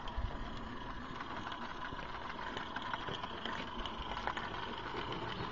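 Live-steam Accucraft Shay geared locomotive running, a steady mechanical sound with faint ticks.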